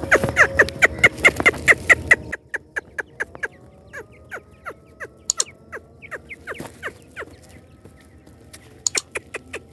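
Grey francolin chicks peeping: a rapid run of short, falling cheeps, about four or five a second, louder at the start and again near the end.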